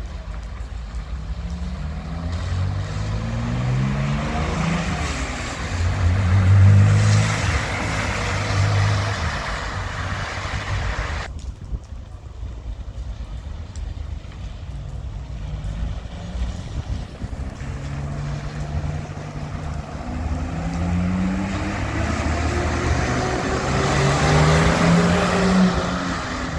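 Classic cars' engines pulling away one after another, each rising in pitch, dropping at a gear change and rising again. The sound breaks off suddenly about eleven seconds in, and another car follows.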